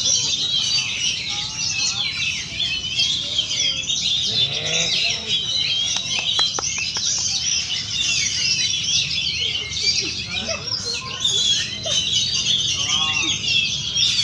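Songbirds chirping and twittering without a break, a dense mass of quick, high overlapping calls with a few lower calls among them.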